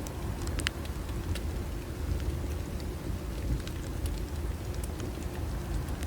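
Bonfire burning: scattered sharp crackles and pops from the burning wood over a steady low rumble.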